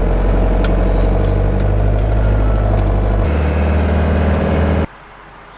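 The motorhome's Fiat Ducato 2.5 TDI diesel engine running on the road, a loud steady low drone. The deepest part of the note drops away a little past halfway, and the sound cuts off suddenly near the end.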